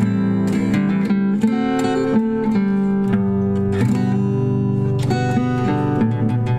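Acoustic guitar playing chords without vocals: the instrumental ending of the song, with an occasional strum over ringing chords.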